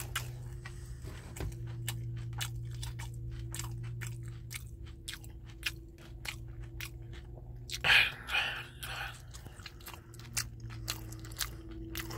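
Close-up chewing of crispy tater tots: a run of small crunches in quick succession, with a louder crunch about eight seconds in, over a steady low hum.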